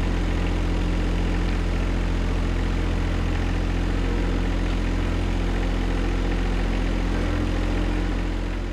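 John Deere 1025R compact tractor's three-cylinder diesel engine running steadily, starting to die away near the end.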